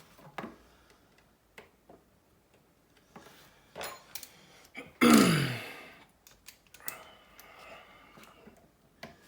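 Scattered light clicks and taps of small tools and tiny screws on a phone's internals, and about five seconds in a short, loud vocal sound from the person working, falling in pitch, like a throat clear or grunt.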